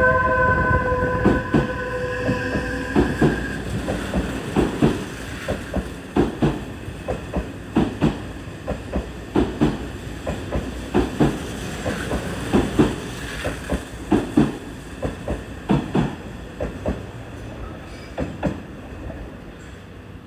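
Odakyu VSE Romancecar train pulling away: wheels clicking over rail joints, mostly in pairs about every second to second and a half, growing fainter as the train moves off. A steady high tone stops about three seconds in.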